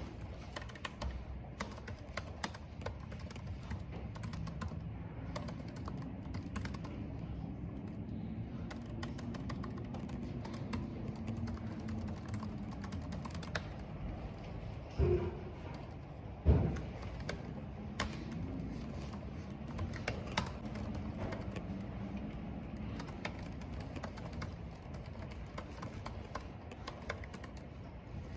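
Computer keyboard typing: irregular keystroke clicks over a steady low rumble of wind and rain. About halfway through come two louder thumps a second and a half apart.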